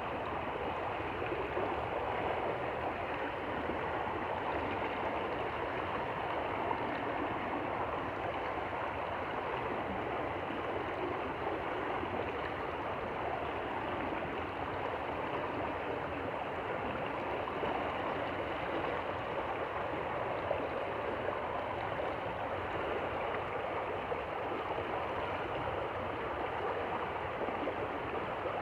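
Shallow stream flowing steadily, a continuous even babble of running water.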